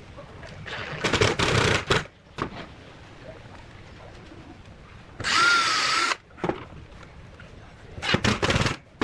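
A handheld power tool, drill-like, run in three short bursts of about a second each; the middle burst carries a whine that wavers in pitch.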